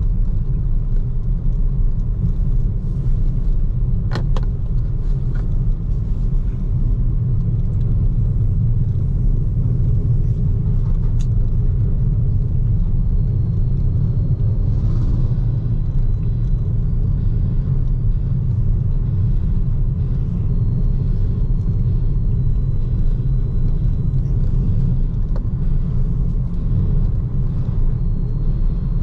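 Steady low rumble of tyre and road noise from a BYD Seagull electric car on the move, with a couple of short sharp clicks, one about four seconds in.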